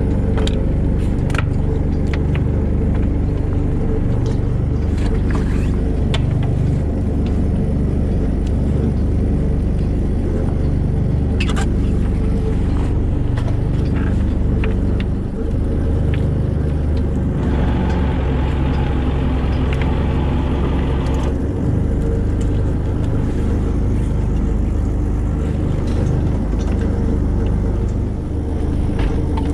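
Fishing boat's engine running steadily with a deep hum, with scattered clicks and knocks on deck. A rushing noise joins it for about four seconds past the middle.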